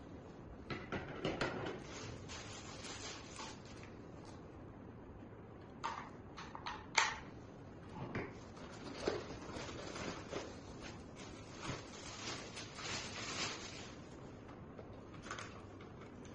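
Irregular clicks, knocks and rubbing of hard objects being handled, with a louder knock about seven seconds in.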